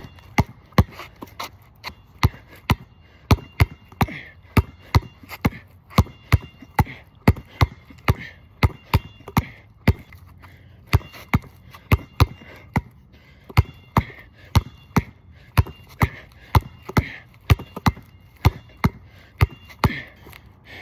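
Basketball dribbled hard and repeatedly on a wet court: a steady run of sharp bounces, about two a second.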